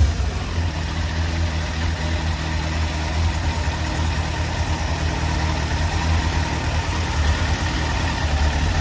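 1999 Yamaha YZF750R's inline-four engine idling steadily.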